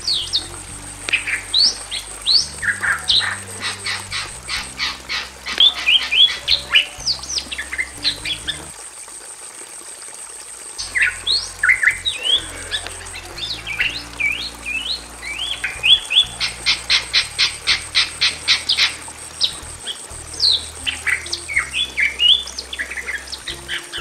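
Bali mynas calling loudly: sharp whistles and squawks, broken by fast runs of repeated notes at about four a second. The calling stops for about two seconds near the middle, then resumes.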